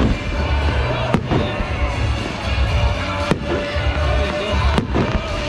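Aerial firework shells bursting: three sharp bangs, about a second in, past three seconds and near five seconds, over a low rumble of booms, with music playing underneath.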